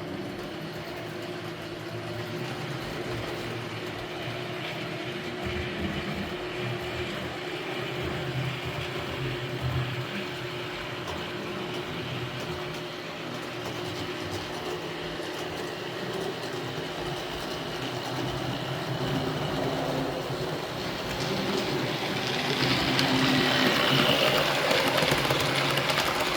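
HO scale model train running along the track, a steady motor whir with a few held tones, growing louder for the last few seconds as it comes closer.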